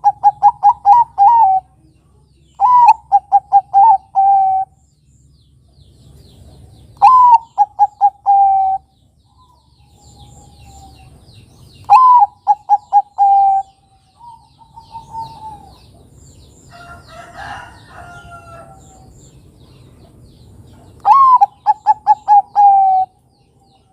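Bangkok-type zebra dove (perkutut) cooing in five phrases. Each phrase is a high opening note, then a quick string of short staccato coos, ending on a longer note.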